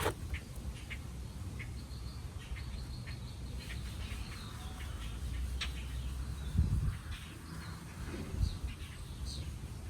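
Birds chirping in short high calls, with a few small clicks and two low thumps from handling, over a low steady background rumble.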